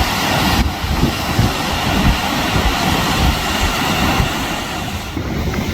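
Wind buffeting the microphone in irregular gusts over a steady rushing hiss.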